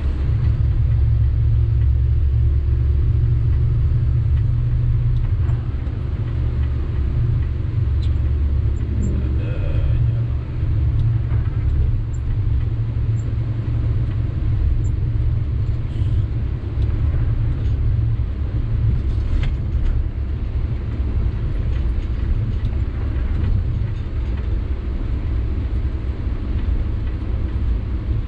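Sany 6x4 dump truck's diesel engine running while driving, a steady low rumble with road noise.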